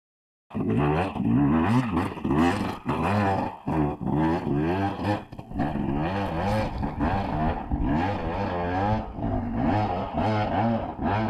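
Dirt bike engine revving hard, its pitch rising and falling again and again as the throttle is worked on a steep hill climb. The sound cuts in suddenly about half a second in.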